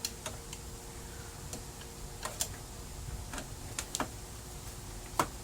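Irregular sharp clicks and taps of plastic printer parts being handled and unclipped during disassembly of a Brother laser printer, about ten in all, the loudest near the end, over a faint steady hum.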